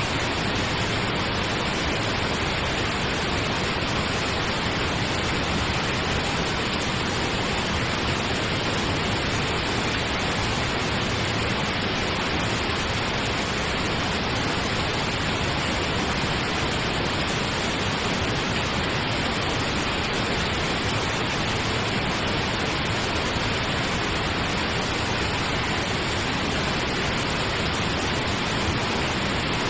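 Steady pink noise: an even, unchanging hiss with a deep rushing undertone, much like a waterfall.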